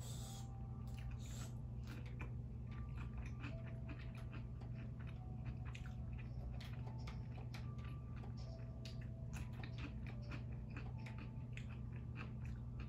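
Biting into and chewing a pickle spear and shrimp cheeseburger, with many small crunching clicks, over a steady low hum.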